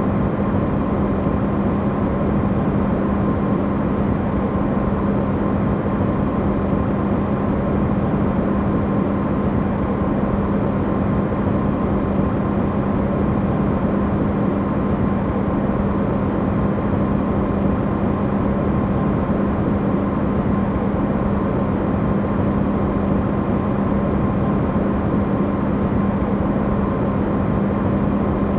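Amplified recording of an Electrolux side-by-side refrigerator running: a steady low hum with a rushing noise over it, used as white noise for sleep.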